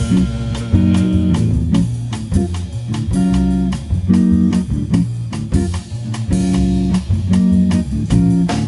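Live jazz band playing an instrumental passage between sung verses: rhythmic guitar chords over double bass, with a drum kit keeping time.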